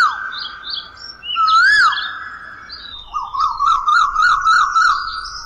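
Birdsong: whistled chirps and glides, with a rising-and-falling whistle about one and a half seconds in and a run of quick repeated chirps from about three seconds.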